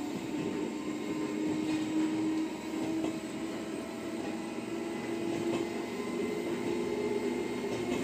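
Echizen Railway electric train running, heard from inside its driver's cab: a steady rumble of wheels on rail with a drive whine that wavers and slowly rises in pitch.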